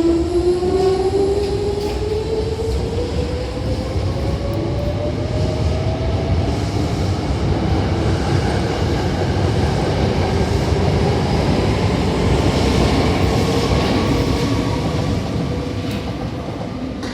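Hankyu 6000-series electric train pulling out and accelerating, its traction motors giving a whine that climbs steadily in pitch over the first several seconds, over a loud rumble of wheels on rail. The running noise eases slightly near the end as the train moves away.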